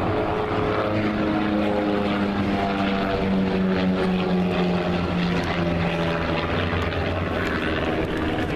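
Propeller airplane engine running steadily as it flies past, its tone sliding slightly lower during the pass.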